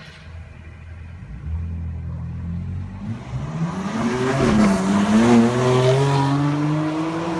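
BMW M4's twin-turbo straight-six accelerating hard, its note rising in pitch and getting louder, with one upshift past the middle before it climbs again.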